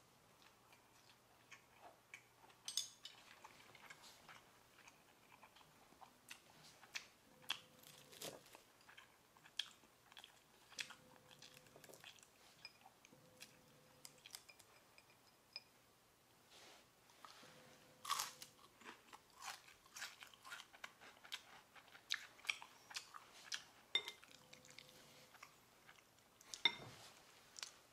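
Faint close-up eating sounds: crisp deep-fried flower and herb tempura (acacia blossom and crown daisy) being bitten and chewed, giving a scattered run of short sharp crunches. A few louder crunches come about 3 s in, about 18 s in and near the end.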